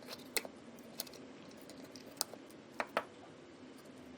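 Pliers cutting off a ventilator's cooling-fan holders: about five sharp snips at uneven intervals over a faint steady hum.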